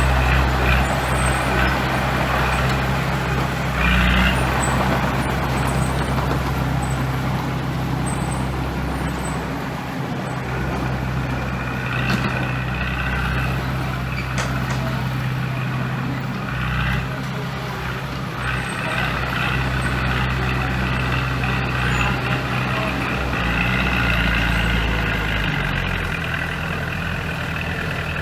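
Heavy diesel earthmoving machinery running: a steady low engine drone with higher noise that swells and fades every few seconds.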